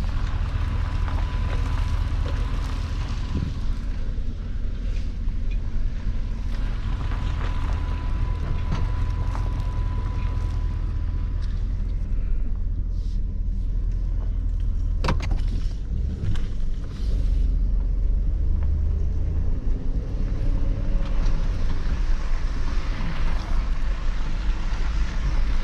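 Plow truck engine running steadily at low speed while it salts a lot, with a thin steady whine for the first ten seconds or so. A single sharp click comes about fifteen seconds in, and the engine gets louder from about seventeen seconds.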